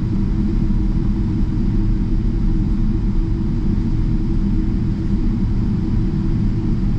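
Steady low rumble of an Emirates Boeing 777-300ER's GE90 jet engines and airframe heard inside the cabin, level and unchanging in loudness.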